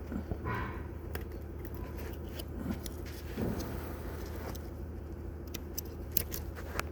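Scattered light metallic clicks and clinks of handling, over a steady low hum.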